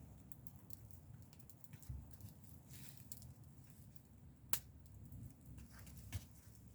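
Wood campfire crackling faintly: sparse, irregular ticks and pops over a low rumble, with one sharp pop about four and a half seconds in and a smaller one near the end.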